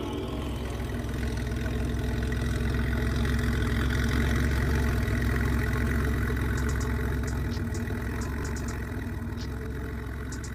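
Volkswagen Beetle engine running steadily at low revs, swelling over the first few seconds and then easing off.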